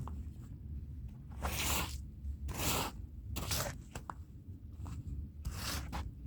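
Hand brush scrubbing a wet rug: uneven strokes of bristles across the fibres, four louder ones among smaller scrapes, over a steady low hum.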